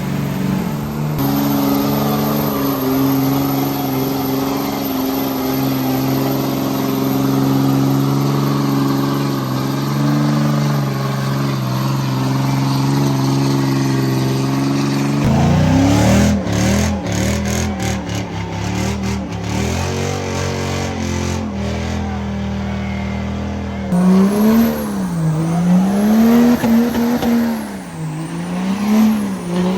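Truck engine held at high, steady revs, then after a sudden change revved up and down repeatedly, with tire noise under it.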